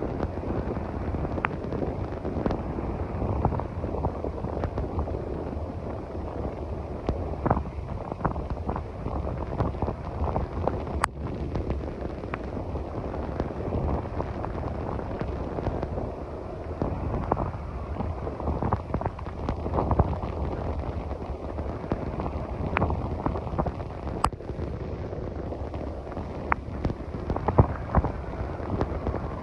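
Heavy rain and gusting wind buffeting the microphone, with frequent sharp pops and ticks from raindrops striking near it.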